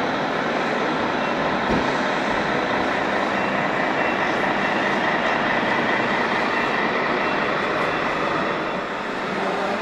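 Radio-controlled truck running, a steady mechanical noise with a faint high whine over it.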